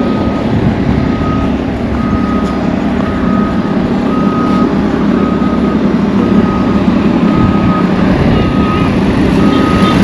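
A heavy vehicle's reversing alarm beeping steadily, about one beep every three-quarters of a second, over the rumble of its running engine.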